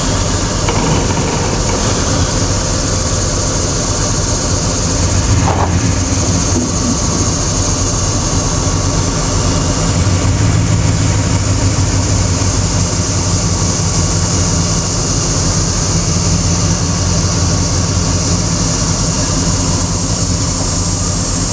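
A heavy vehicle's engine running steadily at low speed, with an even hiss over it.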